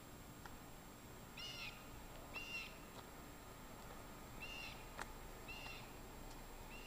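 Faint short bird calls, repeated about five times a second or so apart, over a quiet outdoor hiss, with one sharp click about five seconds in.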